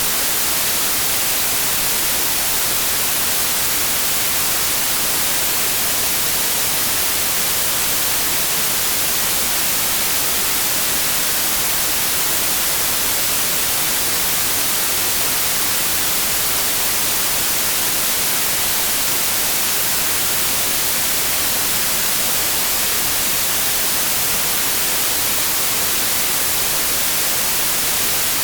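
Steady, unbroken white noise: an even hiss, strongest in the treble, with no change in level.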